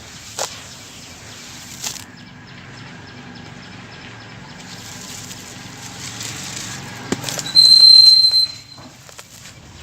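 Sand-cement crumbling with a couple of sharp cracks early on and a soft rustle. Near the end a loud, high, steady whistle-like tone sounds for about a second, its source unknown.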